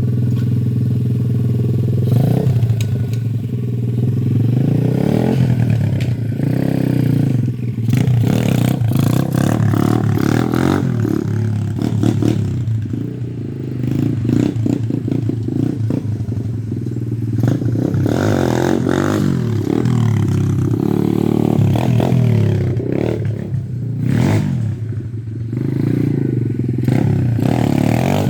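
A pit bike engine revving hard and dropping back several times, with the throttle snapped open again and again for wheelie attempts. Rattles and scraping noise run underneath.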